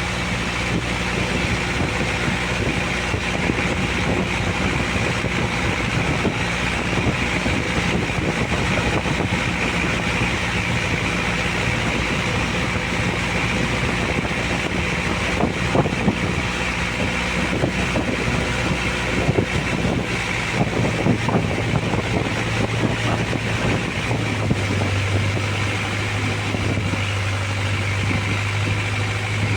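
Boat engine running steadily under a constant wash of wind and water noise, its low hum shifting to a different pitch in the last third.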